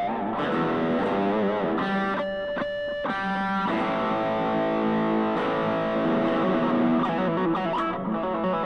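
Stratocaster-style electric guitar played through distortion: single-note lead lines with string bends, and a chord held for about a second and a half near the middle.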